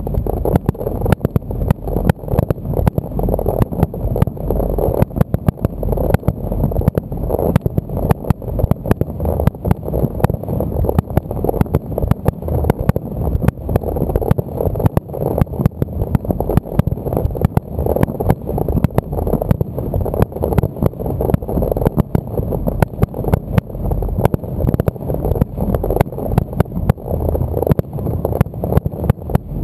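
Aerial fireworks: shells bursting in rapid succession, a dense, unbroken run of bangs and cracks over a deep rumble.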